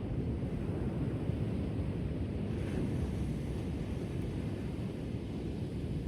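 Ocean surf on a shore: a steady low rumble of waves, with a brief hiss of water washing in about two and a half seconds in.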